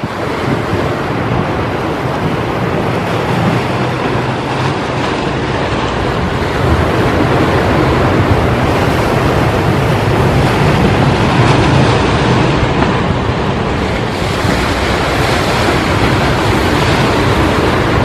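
Ocean surf: a steady roar of waves breaking on the shore, swelling and easing slightly, with wind on the microphone.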